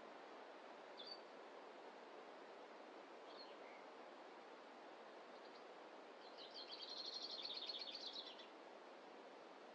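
Faint bird calls over a steady low background hiss of forest ambience. There are two short chirps in the first few seconds, then a rapid trill of about two seconds past the middle, the loudest sound.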